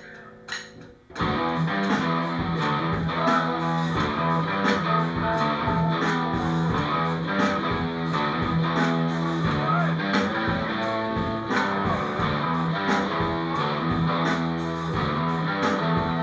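Rock band kicks in about a second in, after a few faint clicks, and plays on steadily with distorted electric guitar, bass guitar and drums.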